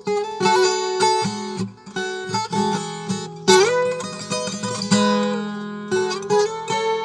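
Viola caipira, the Brazilian ten-string guitar with paired strings, played ponteado: a fingerpicked melody of quick plucked notes, mostly two at a time. About halfway through the notes slide up into a held, ringing passage.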